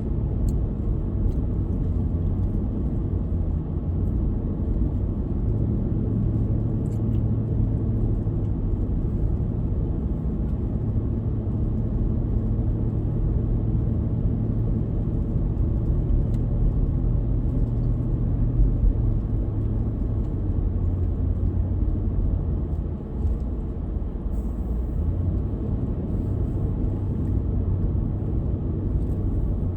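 Car driving along a road: a steady low rumble of engine and tyre noise with a constant hum, dipping briefly in loudness near the end.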